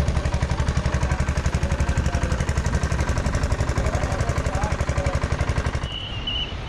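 An engine running with a rapid, even thudding pulse of about a dozen beats a second, which stops near the end.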